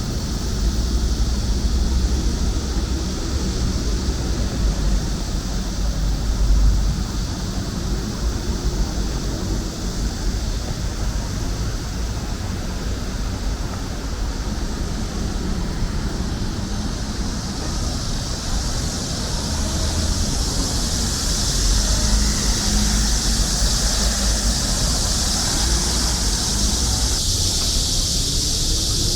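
Steady rumble of city traffic with a continuous high-pitched chorus of cicadas on top, the cicadas growing louder about two-thirds of the way through.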